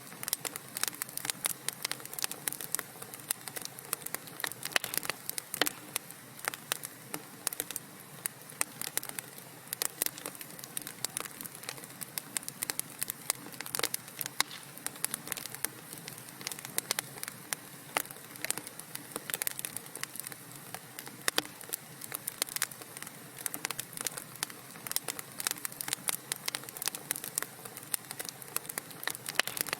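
Burning wood crackling in a fireplace: quick, irregular crackles and pops over a faint steady hiss.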